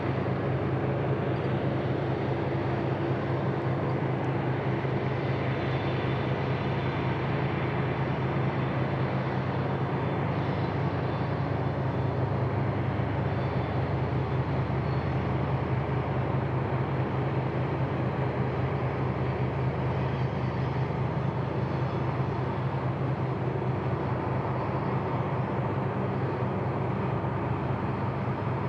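Union Pacific freight train rolling past, a steady, unbroken rumble of wheels on rail.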